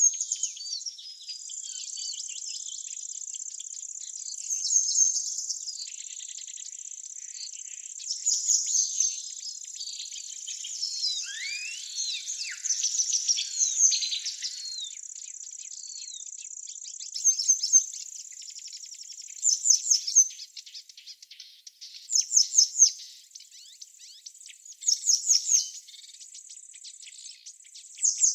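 Small songbirds singing outdoors: short, bright chirping phrases, repeated every two to three seconds in the second half, over a steady high-pitched trill in the background.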